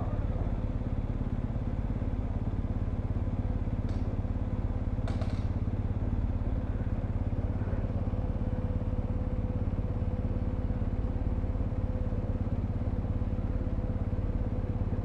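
Motorcycle engine idling steadily. Two faint brief noises sound about four and five seconds in.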